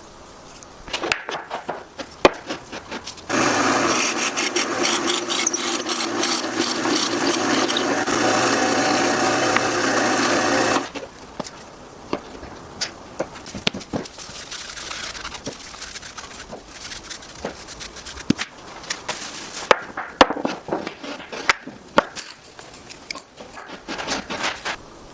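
A handheld power tool runs on wood for about seven seconds, starting a few seconds in and stopping abruptly. Before and after it, wooden pieces are handled, with scattered knocks and clicks.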